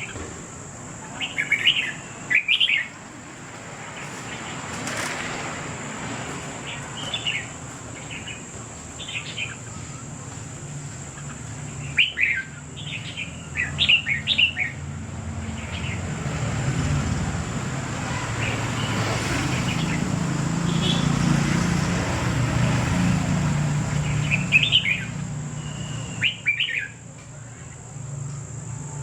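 Small birds chirping in short bursts of quick, high chirps, over a low rumble that swells in the middle and fades near the end.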